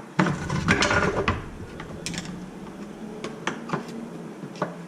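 Traxxas X-Maxx 8S center differential knocking, rattling and scraping against its housing as it is pushed and pried to get it out: a cluster of knocks in the first second or so, then scattered clicks. The differential is stuck, held in by a seized bearing.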